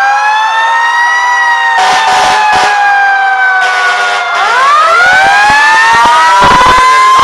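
Several fire truck sirens wailing at once, their pitches slowly rising and falling and overlapping, with another siren winding up about four seconds in. Two short bursts of rushing noise cut in around two and four seconds in.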